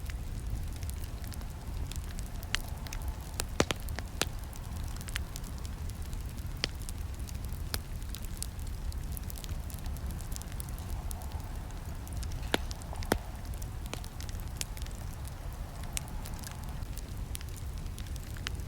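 Campfire crackling and popping: irregular sharp snaps over a steady low rumble of the burning wood, with the loudest pops about four seconds in and about thirteen seconds in.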